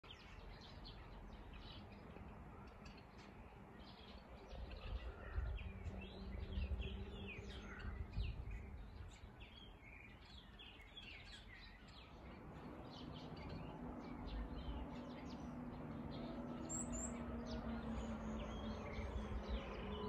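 Many small birds chirping and calling in quick short notes, over a low rumbling noise that swells about five to eight seconds in; a faint steady low hum joins about halfway through.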